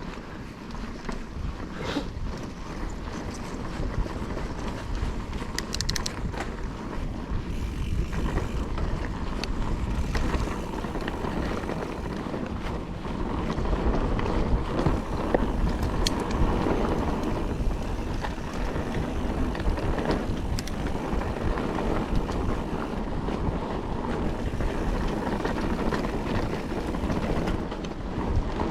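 Mountain bike riding over a dry, loose dirt trail: a continuous rumble of tyres on the ground, with frequent small clicks and knocks from the bike rattling over rough ground, and some wind on the microphone.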